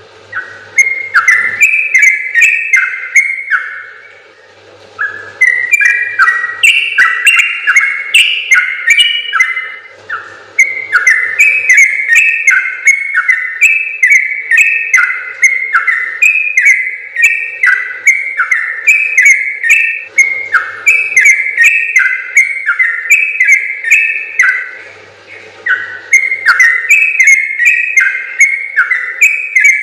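Yellow-vented bulbul (trucukan) singing long runs of quick, bubbly chattering notes that step up and down, breaking off briefly about four, ten and twenty-five seconds in.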